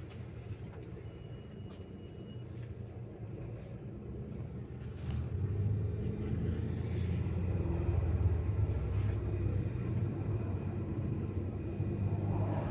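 MAZ-215 articulated city bus heard from inside the passenger cabin: a steady low engine and road rumble that grows louder about five seconds in. A short thin high beep sounds about a second in.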